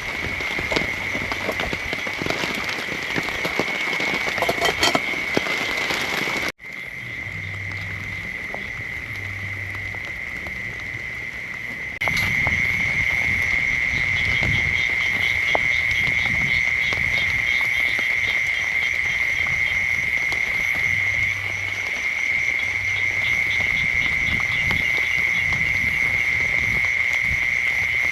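Night chorus of frogs and insects: a steady high trill, with rhythmic pulsing calls over it and short low croaks. Rain patters with crackly drops for the first several seconds; the sound cuts suddenly there and jumps louder again a few seconds later.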